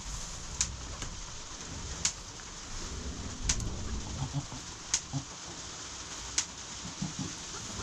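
A sharp click repeating evenly about every second and a half, with soft, low animal sounds in the middle of the stretch.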